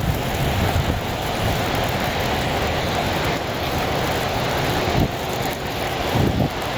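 Wind rumbling on the microphone outdoors in a snowstorm, with short stronger gusts about five and six seconds in.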